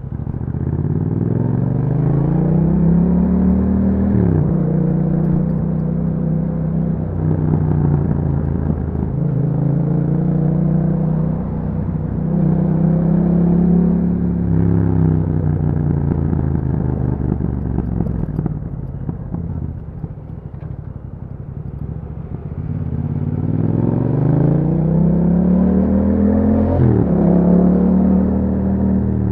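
Yamaha MT-07 parallel-twin engine through an Akrapovic exhaust with a dB killer, pulling through the gears. The pitch climbs and drops back at each upshift, about three times. It eases off and goes quieter for a few seconds past the middle, then pulls hard again near the end.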